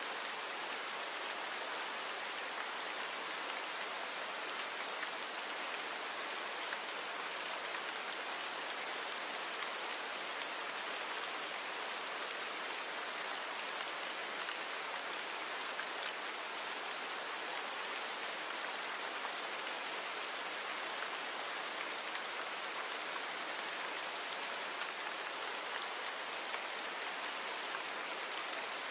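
Steady rain falling, an even hiss of many fine drops without change.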